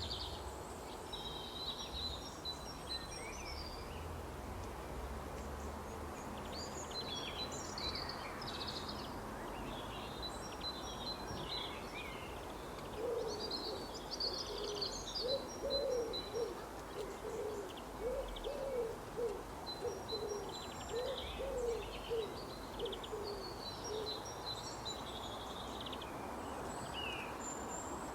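Several small birds chirping and singing over a steady background hiss. Through the middle a low hooting call repeats about once a second.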